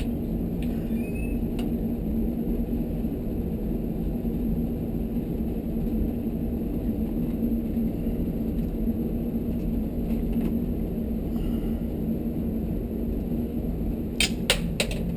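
Steady low machine hum with a constant tone, and a few sharp clicks near the end.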